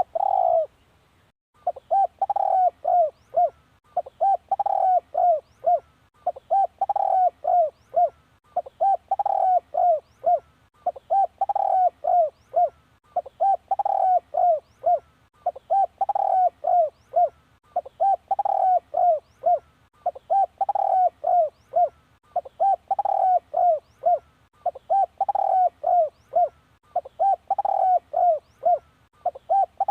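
Spotted dove cooing in a steady repeated song: a phrase roughly every two seconds, each a longer coo followed by a run of quick shorter coos. It is the decoy call used to draw wild spotted doves in.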